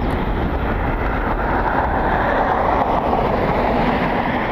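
Jet airliner engines running, a steady even noise with no distinct pitch.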